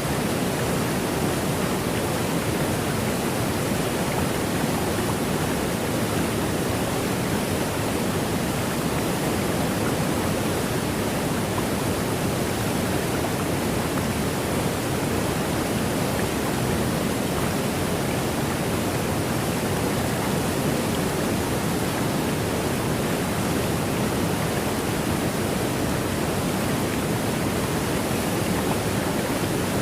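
River water rushing, a steady even rush that does not change.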